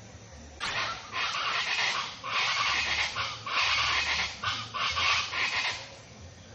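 Birds chattering: a dense run of harsh, scratchy calls that starts about half a second in and dies away near the end.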